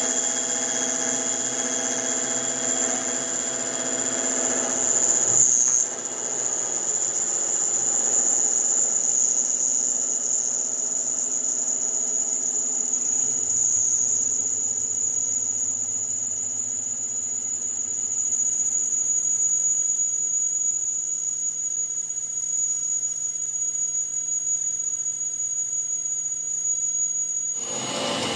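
Steady, high-pitched machine squeal with several held tones, swelling briefly and then dipping about six seconds in.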